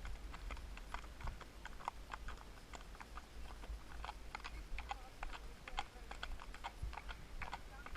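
Horse's hooves clip-clopping on a road: many sharp, irregular clicks over a low rumble.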